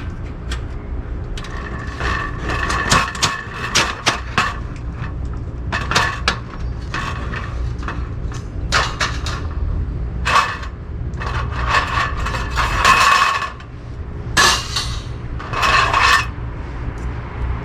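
Thin metal pieces clinking, scraping and ringing against each other in repeated bursts, over a steady low hum.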